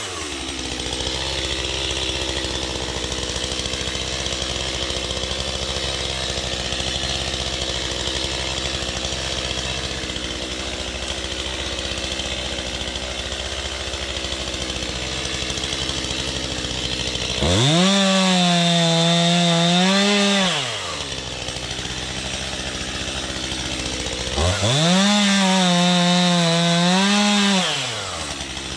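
Two-stroke chainsaw idling, then throttled up to full speed twice for about three seconds each, the pitch wavering and dipping as it cuts wood.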